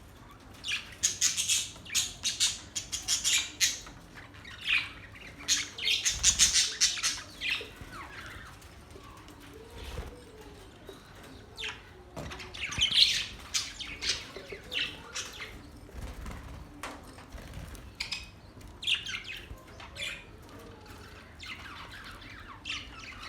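Budgerigars chirping and chattering in bursts of rapid, high-pitched calls, with quieter gaps between the bursts.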